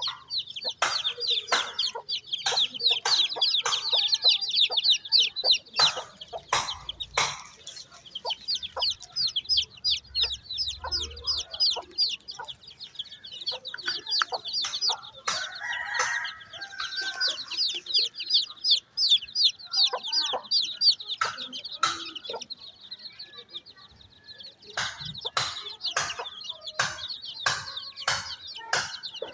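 Chicks peeping in a fast, continuous stream of high-pitched calls while a mother hen clucks, with scattered sharp clicks, the most frequent near the end.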